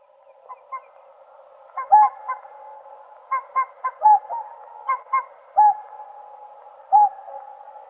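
Whooper swans calling: short, pitched trumpeting honks in quick pairs and threes at irregular intervals, over a steady background of more calling.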